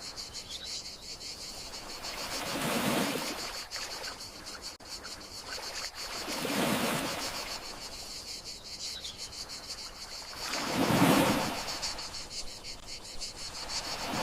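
Gentle sea waves washing onto the shore three times, roughly every four seconds, over a steady high trill of crickets.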